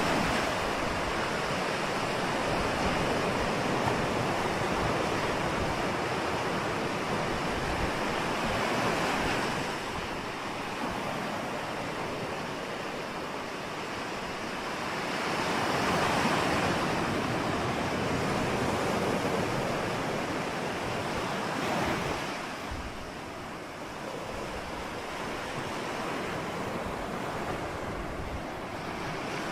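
Ocean surf: a continuous rush of waves that swells in slow surges, loud over the first several seconds and again about halfway through, easing off in between.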